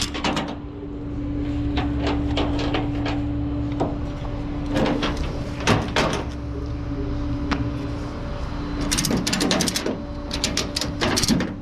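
A steady engine hum, most likely the flatbed tow truck running, under a series of sharp metallic clicks and knocks, with quick runs of clicks about nine and eleven seconds in.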